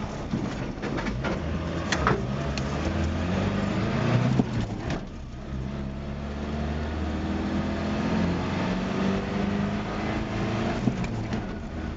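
1984 Ford pickup's engine accelerating hard under full throttle, its pitch climbing, with a brief break for a manual gear change about five seconds in before it climbs again and levels off. A few sharp knocks or rattles come through around two and four seconds in.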